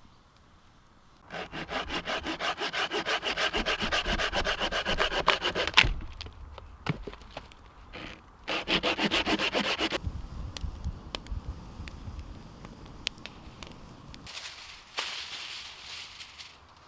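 Hand saw cutting wood in quick back-and-forth strokes, about four a second, in two bouts. The first, longer bout ends with a sharp snap.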